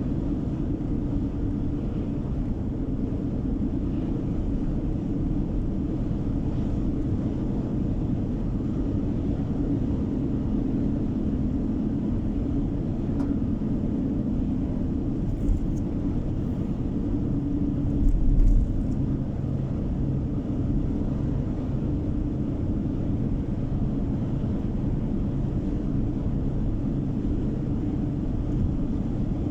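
Steady road and engine noise of a moving car heard inside the cabin, a low even rumble of tyres on the road. About two-thirds of the way through there is one brief low bump.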